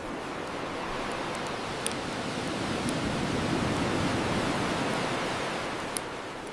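Ocean surf washing on the shore: one wave swells to its loudest midway and ebbs away. Two sharp crackles from a bonfire come about two seconds in and near the end.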